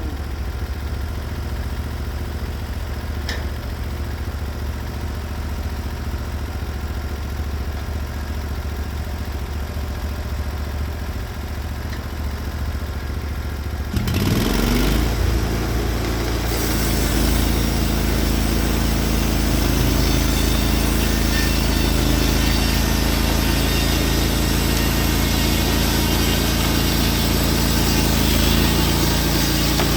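Norwood HD36v2 bandsaw mill's gas engine idling steadily, then about halfway through revving up to full speed. A couple of seconds later a steady hiss joins it as the band blade runs into the spruce log and the mill cuts under load.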